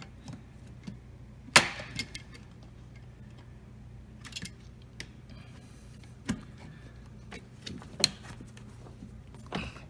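Scattered sharp clicks and knocks of dishwasher parts being handled and fitted during a repair, the loudest about one and a half seconds in, over a faint low hum.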